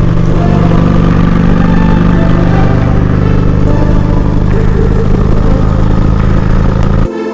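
Harley-Davidson Electra Glide V-twin engine running at a steady highway cruise, with a rush of noise above the engine note; it cuts off suddenly at the very end.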